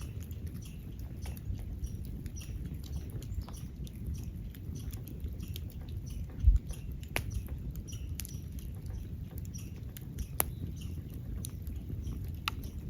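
Wood fire crackling: irregular sharp pops and snaps over a steady low rumble, with one louder low thump about halfway through.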